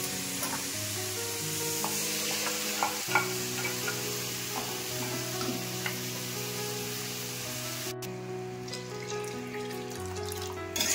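Spinach and tomato sizzling in hot oil in an aluminium kadai, with a ladle scraping and clinking against the pan as it stirs. The sizzle cuts off suddenly about eight seconds in, as cooked dal is poured over the greens. Soft background music with long held notes plays throughout.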